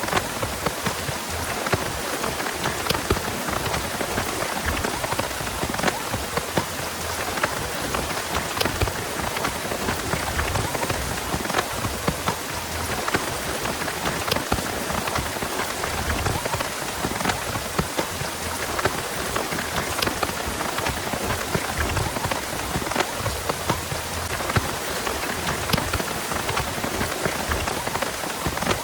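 Heavy rain falling steadily, with a dense patter of individual drops striking nearby surfaces.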